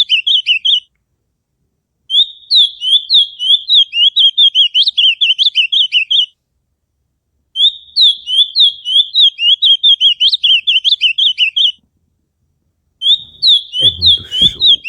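Songbird singing in bouts of about four seconds, each a fast, even string of high chirps, with short silent pauses between bouts. Near the end a brief low rumble with a sharp click comes in under the song.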